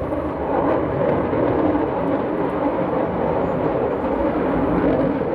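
Jet noise from a Panavia Tornado A-200's twin RB199 turbofan engines in flight, a loud, steady rush with no clear rise or fall.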